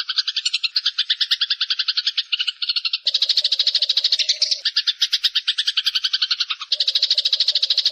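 Eurasian tree sparrows chattering: dense, rapid chirping of about ten notes a second from several overlapping birds, starting abruptly. The mix of voices shifts about three seconds in and again near the end.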